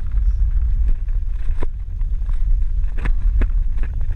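Wind buffeting the microphone on a moving mountain bike, a loud steady low rumble, with scattered sharp clicks and rattles from the bike, several of them in the second half.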